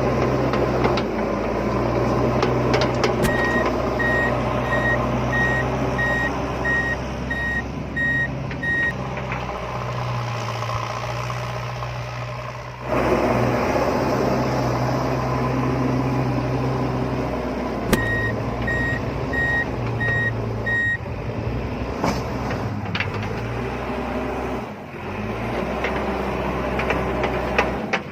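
Toy RC construction vehicle running with a steady motor hum, while its electronic reversing beeper sounds a high beep about one and a half times a second in two runs: one a few seconds in and one past the middle.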